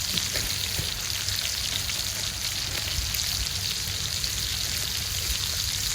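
Beef burger patties sizzling in their own melting fat over a campfire: a steady frying hiss with small pops and crackles throughout.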